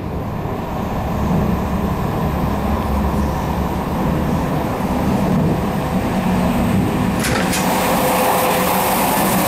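Running noise of a moving SNCF Corail passenger coach heard from inside: a steady rumble of wheels on the rails. A couple of sharp clicks come about seven seconds in, and the noise then gets brighter and a little louder toward the coach's end doors.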